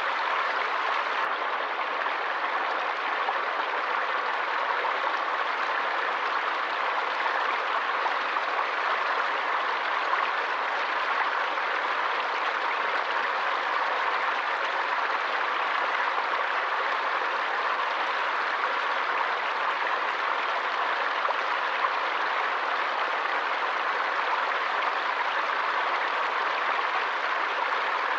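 Stream water flowing steadily: an even hiss of running water with no separate splashes or changes.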